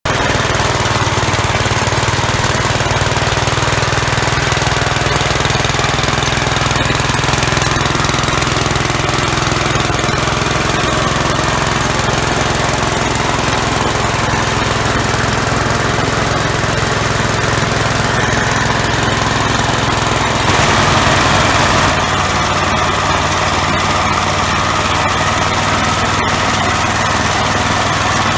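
Single-cylinder engine of a 1966 Gravely L walk-behind tractor, fitted with an MA115 Deluxe snowblower, running steadily. About two-thirds of the way through it grows louder for a second or so, then settles back.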